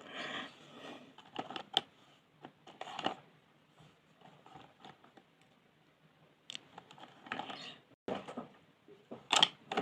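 Colouring on paper: irregular groups of short strokes with quiet gaps between them, and a few sharp clicks or taps. The loudest comes near the end.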